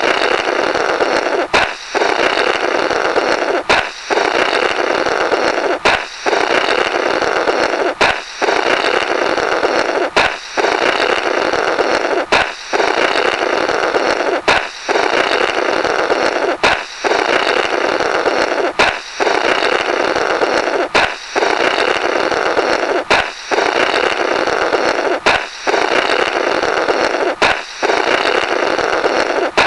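A balloon pop followed by a comic 'Blorrrt', someone blowing through the burst rubber remnants, looped. A sharp pop is followed by about two seconds of rough blowing, and the cycle repeats roughly every two seconds, about fourteen times.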